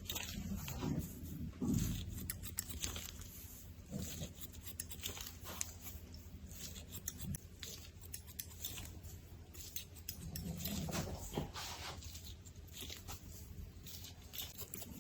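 Barber's shears snipping hair in irregular, quick clicks over a faint steady hum.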